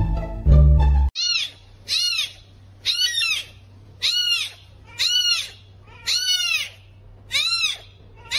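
An animal calling over and over with a high cry that rises and falls, about seven calls roughly a second apart. The calls begin just after music cuts off about a second in.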